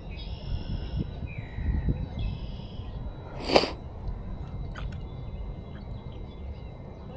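A bird calling twice in short, buzzy notes, with one sharp click or knock about three and a half seconds in, over a steady low rumble.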